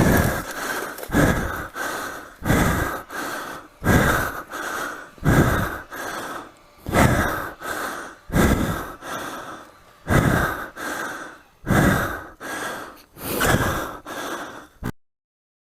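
A person breathing hard and heavily, in loud, even breaths about every second and a half, out of breath from exertion; the sound cuts off suddenly near the end.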